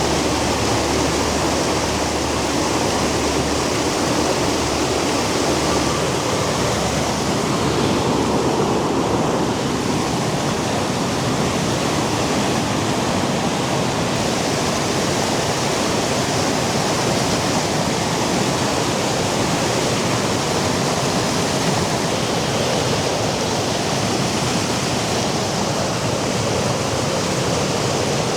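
Steady, loud rush of falling water, even and unbroken throughout.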